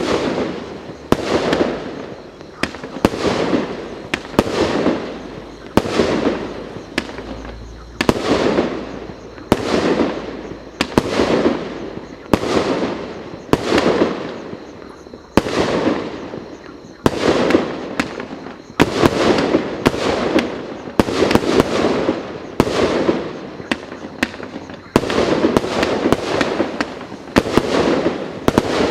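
Multi-shot consumer firework battery ("Star Rain") firing shot after shot at an even pace of about one a second. Each shot is a sharp bang that trails off over about a second before the next.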